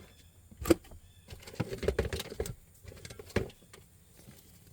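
A sharp knock, then a second or so of clattering and shuffling, then another knock: objects being handled and moved about.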